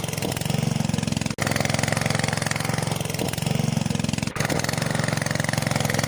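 Small engine running steadily at idle, with two brief dropouts in the sound.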